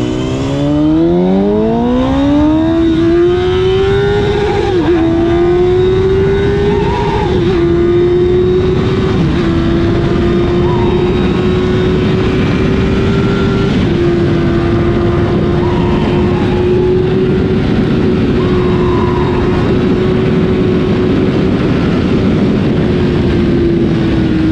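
Honda CBR1000 inline-four engine pulling hard, its pitch climbing steeply over the first few seconds, then holding a steady high drone with a few brief dips, under heavy wind rush on the microphone.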